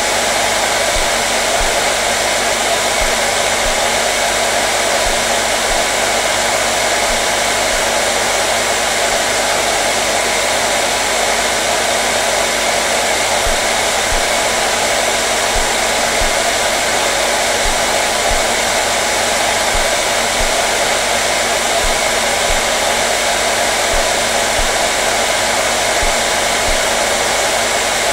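Hair dryer running continuously: a steady, even rush of blown air with a faint motor hum, unchanging throughout.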